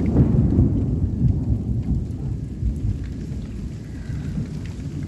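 A rumble of thunder that starts suddenly, is loudest for the first second or two, then slowly eases, over steady rain.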